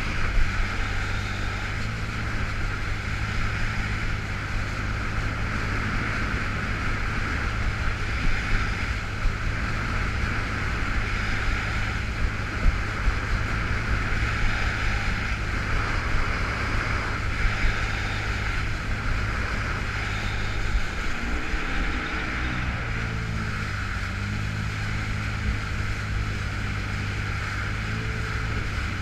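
2005 Yamaha FX Cruiser H.O. jet ski's four-stroke engine running steadily under way, held in reduced-power Lo-Mode, with the hiss of rushing water and wind on the microphone. The engine pitch shifts briefly a little past two-thirds of the way through, then settles.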